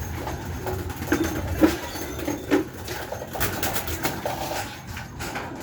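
Domestic pigeons cooing in short low notes, with scattered clicks and knocks.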